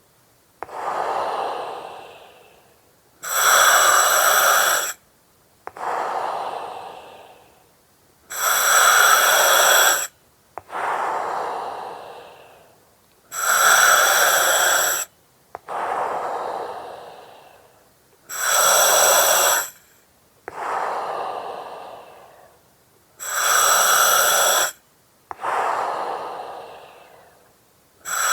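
A person breathing slowly and steadily through an oxygen mask. Each breath is a loud, even hiss of about a second and a half that starts and stops abruptly, then a softer breath fading out over about two seconds, sometimes opening with a faint click. The cycle repeats about every five seconds.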